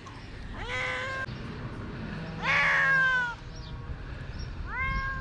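Domestic cat meowing three times, each call rising in pitch and then levelling off or falling. The second meow, about two and a half seconds in, is the loudest and longest.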